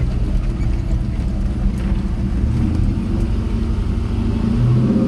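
Old pickup truck's engine running while driving, heard from inside the cab, steady and low. About four and a half seconds in, the engine note rises and strengthens as it pulls harder.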